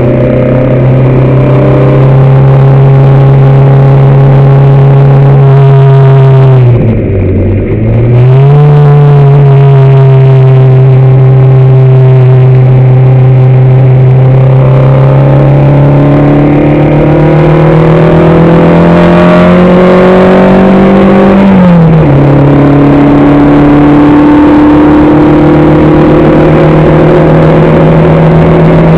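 Race car engine heard from on board, running loud and hard under load. About seven seconds in it briefly drops in pitch and picks back up. Its pitch then climbs slowly and falls sharply about 22 seconds in before holding steady again.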